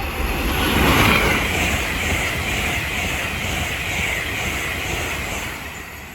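LNER Azuma express train passing through the station at speed without stopping: a loud rush of wheel and air noise, loudest about a second in, then fading away near the end.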